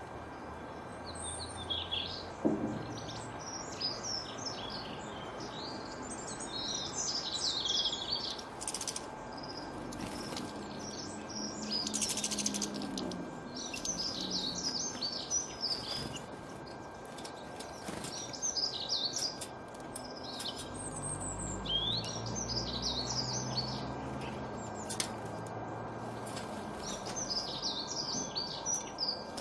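Small songbirds chirping and twittering in quick high bursts, one cluster after another, over a steady background hiss.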